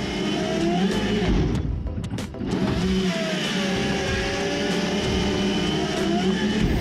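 Engine of a working machine running steadily under load, its pitch drifting up and down a little, with a brief change about two seconds in.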